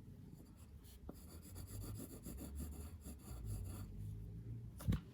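A drawing tool scratching across paper in short, repeated strokes, with a single sharp knock near the end.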